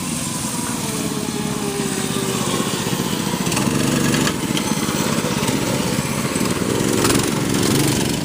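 Small 6.5 hp single-cylinder mini bike engines running. One engine's pitch falls over the first couple of seconds as it slows.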